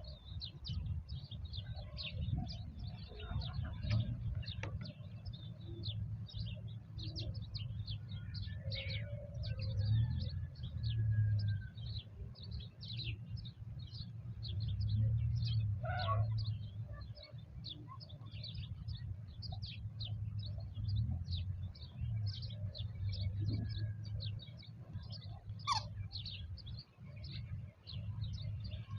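Small birds chirping continuously: many rapid, short, high chirps overlapping, with a few lower calls, over a steady low rumble.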